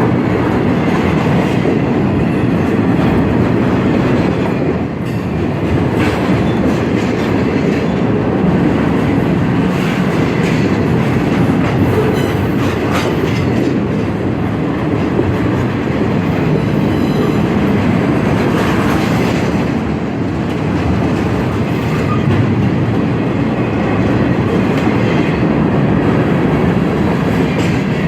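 Freight train rolling past steadily, its wheels clacking over the rail joints.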